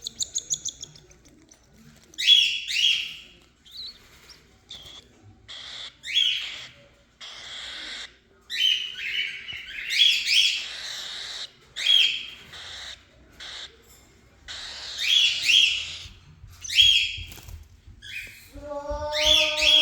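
Cockatiel calling over and over in short, raspy bouts of falling chirps, typical of a hungry bird begging for food. Near the end comes a lower, steadier held tone.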